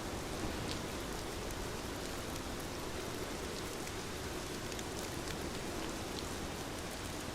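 Steady rain falling on a window, with scattered small ticks of individual drops.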